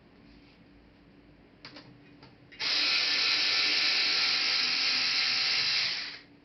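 Small electric motor whirring steadily through its gears for about three and a half seconds, starting and stopping abruptly, after a couple of light clicks.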